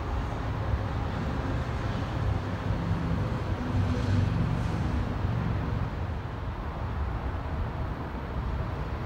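Freight train's autorack cars rolling past on the rails, a steady low rumble that swells a little about four seconds in.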